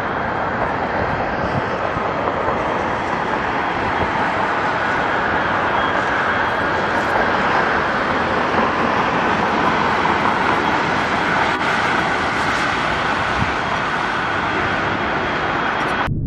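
Aircraft rolling along a runway: a steady, loud roar.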